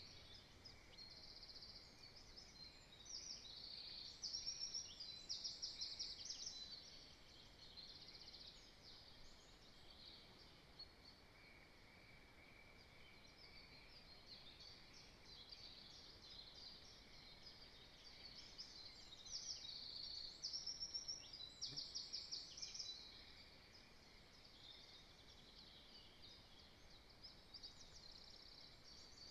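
Faint songbirds singing in the surrounding woodland, with two louder bouts of fast trilled song, one about 3 seconds in and a similar one about 19 seconds in.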